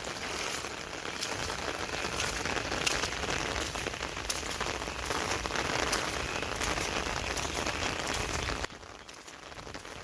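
Heavy rain falling: a steady hiss with scattered drop hits, which turns abruptly quieter near the end.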